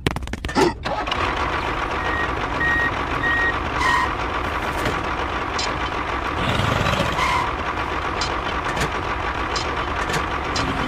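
Vehicle reversing alarm beeping about five times at one high pitch, about two seconds in, over a steady engine hum that swells a little in the middle.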